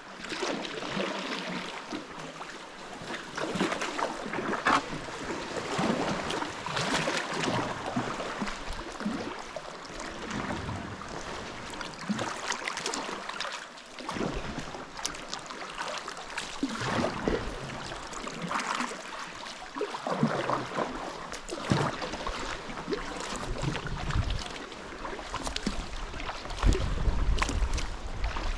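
Sea kayak paddling: irregular splashes of paddle strokes and sea water slapping and sloshing against the hull and rocks. Wind buffets the microphone near the end.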